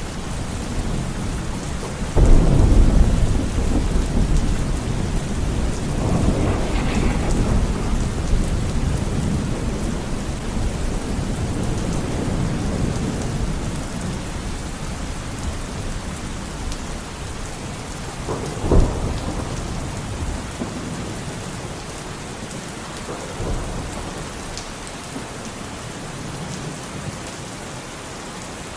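Steady rain with rolling thunder. A loud thunderclap comes about two seconds in and rumbles on, another peal swells around six seconds, a short sharp crack falls past the middle, and the rumbling dies down toward the end.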